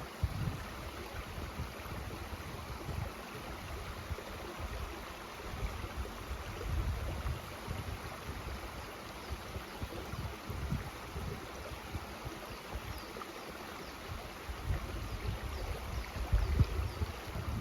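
Mountain stream running with a steady rushing wash of water. Irregular low rumbles buffet the microphone, strongest near the end.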